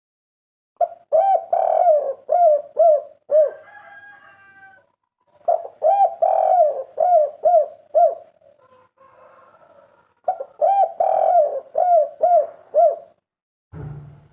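Spotted dove (derkuku) cooing its 'kuk 3' song: three phrases of rapid, repeated arched coo notes, each phrase lasting about three seconds, with pauses of about two seconds between them. A brief low dull sound comes near the end.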